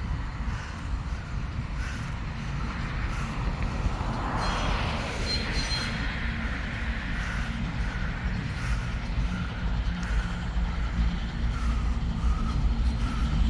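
ChME3 diesel shunting locomotive running, a heavy steady engine rumble with rail noise, growing louder toward the end. A brief high squeal comes about five seconds in.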